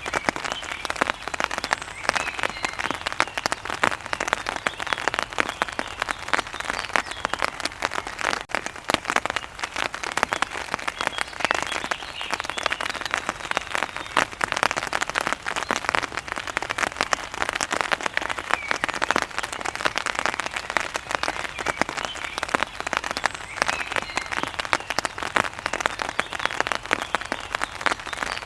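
Steady rain: a dense, even spray of drops hitting a hard surface.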